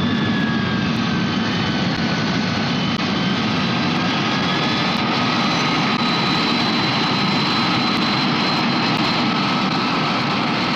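Jet airliner engine running: a steady roar with high whining tones on top that drift slightly in pitch.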